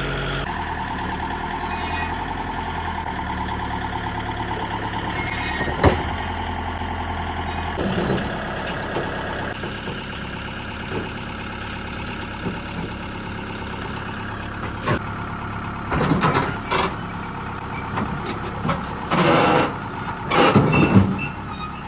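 A vehicle engine running steadily, with a sharp knock about six seconds in. In the last several seconds come loud, irregular clanks and scraping noises.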